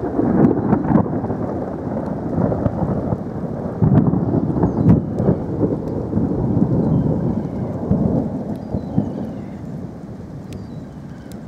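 Thunder rolling in a long low rumble that swells twice and fades away near the end, with rain falling.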